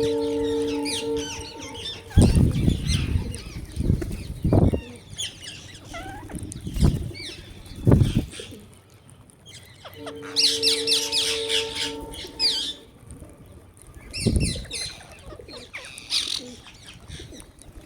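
Small birds chirping and twittering busily, with several short wing flutters as birds fly in and out. Twice a steady low hum comes in for about two seconds, once at the start and once about ten seconds in.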